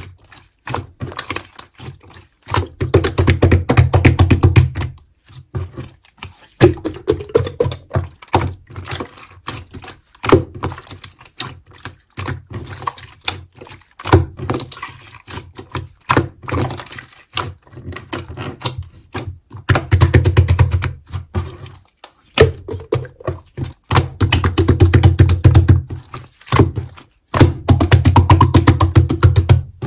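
Clear slime being squeezed, poked and folded by hand, giving rapid crackling clicks and pops from the air pockets, with several longer stretches of low squelching thuds as the slime is pressed together.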